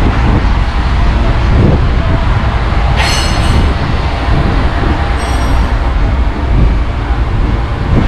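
DAF truck's diesel engine running, a loud steady low rumble, with two brief high-pitched squeals, one about three seconds in and another about two seconds later.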